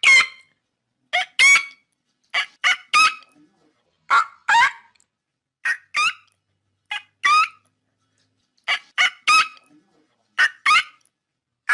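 A bird calling in loud two-note calls, a short note then a longer one, repeated about every one and a half seconds.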